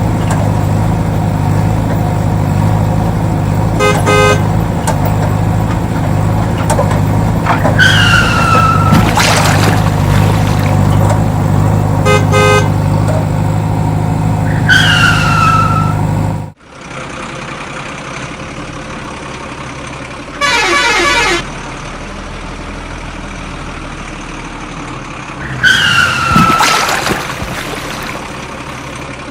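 Cartoon vehicle sound effects: a steady engine hum with short horn toots and several falling tones. About halfway through the engine hum cuts off abruptly, and another horn honk and a falling tone follow over a quieter background.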